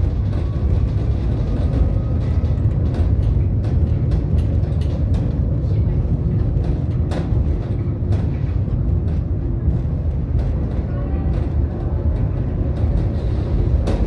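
Tram running on its rails: a steady low rumble with scattered clicks and knocks from the wheels and car body.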